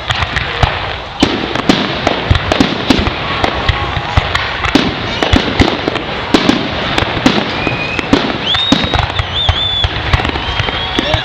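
Fireworks display finale: a dense, continuous crackle of many shells bursting, with frequent sharp bangs. Near the end, several rising whistling tones join in.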